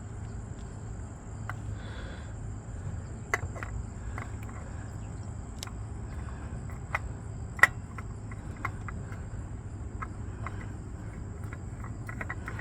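Crickets chirping steadily in the background, with a few short sharp clicks and taps from handling the new oil filter, the loudest about three quarters of the way through.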